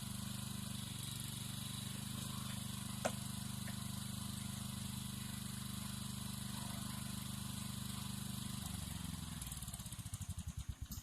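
An engine running steadily, with a single sharp click about three seconds in. Near the end it is shut off, its firing slowing into separate chugs and dying away.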